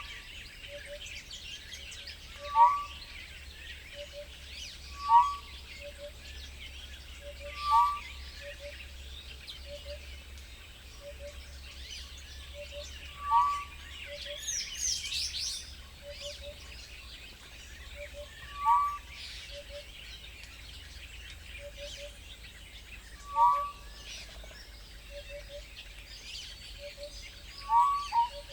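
Wild birds calling: one bird repeats a short whistled note that falls in pitch about every two and a half seconds, with a soft double note about once a second, over a background chorus of high chirping. A louder flurry of high chirps comes about halfway through.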